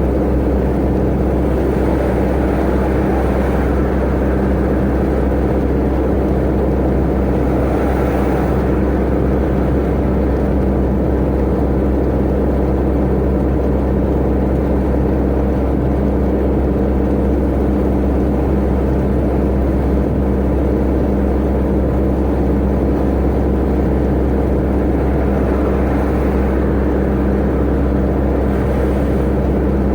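Tata Ace mini truck's engine running steadily at constant road speed, a continuous drone that holds one pitch, under a haze of road and wind noise that swells briefly a couple of times.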